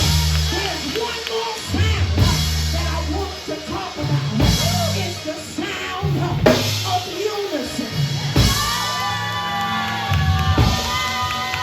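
Church band music: bass and drum kit playing with a voice singing or shouting over it, and sustained organ-like chords coming in about eight seconds in.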